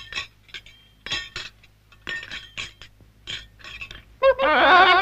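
A string of light metallic clinks and taps, about a dozen over four seconds. About four seconds in, a loud warbling, whistle-like call with a wavering pitch starts and is the loudest sound.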